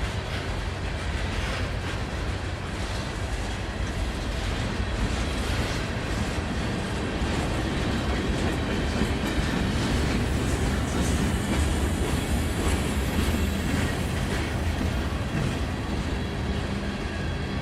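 A freight train's cars rolling past, with a steady rumble of wheels on rail and scattered clicks of wheels over rail joints.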